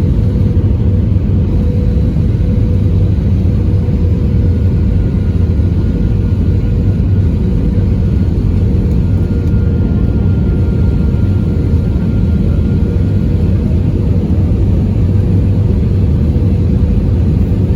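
Steady in-flight cabin noise of an Airbus A320: a deep, even rumble of engines and airflow, with a faint steady hum over it.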